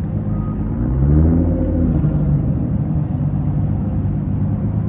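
Car engine running with road rumble. The engine note rises and grows louder about a second in, as when speeding up, then settles back to a steady hum.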